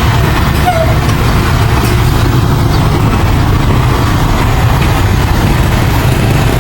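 Heavy diesel engine of earthmoving machinery running steadily under load, a loud, constant low rumble.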